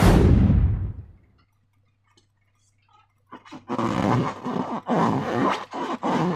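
Slime being squeezed and worked by hand, wet squelching in a quick irregular run of pulses from about three seconds in. At the start comes a loud sudden burst of noise that fades over about a second.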